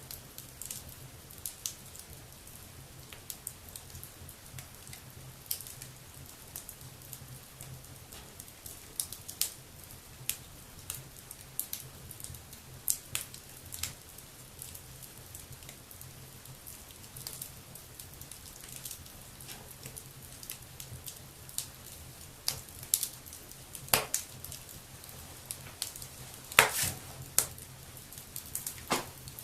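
Wood fire burning in a fireplace, crackling and popping irregularly, with the pops growing more frequent and louder toward the end. A faint steady low hum runs underneath.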